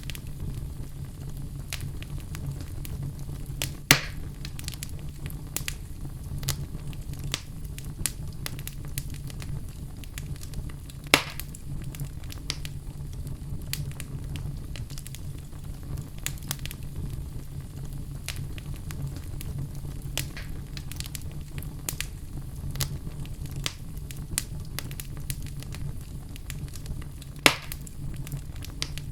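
Crackling fire: a steady low rumble with frequent small crackles and three louder pops spread through.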